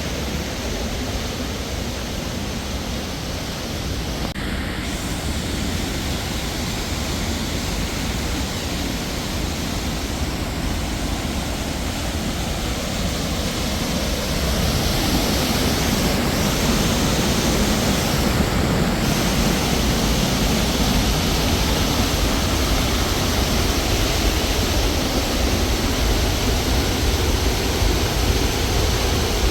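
Steady rush of falling water, louder from about halfway through.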